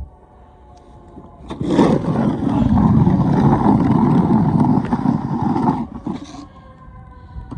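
Snow shovel scraping along the pavement, pushing snow in one long push of about four seconds that starts and stops abruptly, then a short second scrape.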